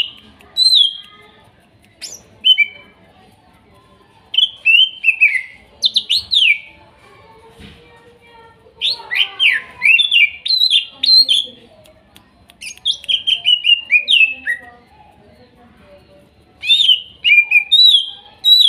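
Cucak ijo (green leafbird) singing in bursts of rapid, sliding whistled notes, phrase after phrase with short pauses between.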